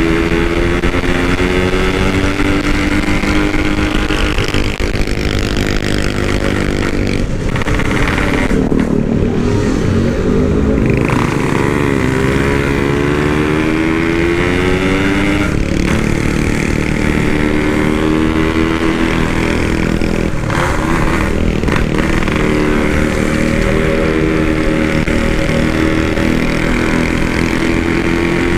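Yamaha RX-King two-stroke single-cylinder motorcycle engine running under way, its exhaust loud and its pitch rising and falling with the throttle. The pitch drops sharply twice, as at gear changes.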